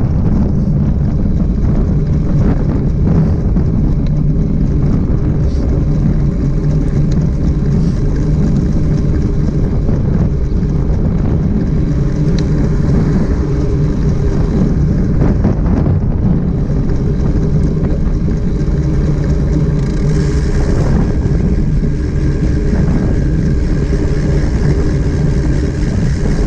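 Steady, loud riding noise: a constant low hum from a vehicle moving at an even speed, mixed with wind rushing over the microphone.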